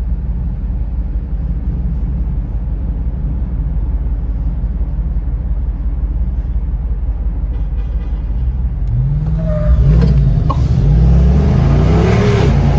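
Motor-vehicle engines heard from inside a moving car. There is a steady low rumble of cruising, then from about nine seconds in an engine accelerates hard, its pitch climbing and stepping up through several gear changes.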